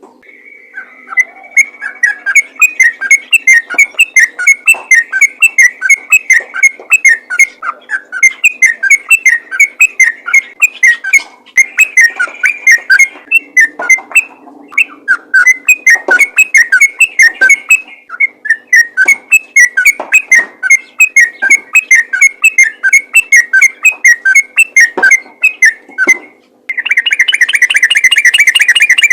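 Sooty-headed bulbul singing a fast, near non-stop run of loud whistled notes, about three or four a second with short breaks. Near the end it runs into a dense, rapid trill.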